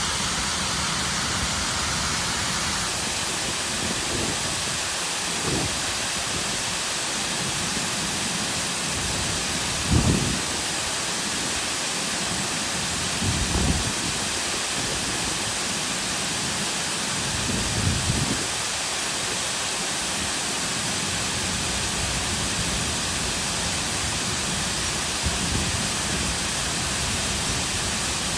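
Cascading artificial waterfall with a steady, even rush of water. A few brief low thumps break through, the loudest about ten seconds in.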